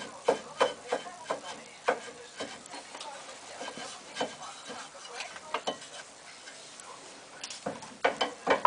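Irregular metallic clicks and light scraping from hand work on a car's brake assembly, a few knocks a second, with a cluster of louder clicks near the end.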